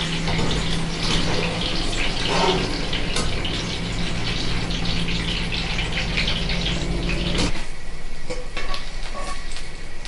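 Eggplant cubes frying in hot olive oil: a steady sizzle with crackling. A low steady hum runs underneath and stops about three quarters of the way through, after which the sizzle is sparser.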